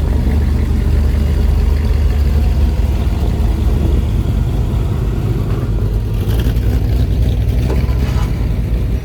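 Classic car's engine running at parade pace, a loud, steady, deep exhaust rumble.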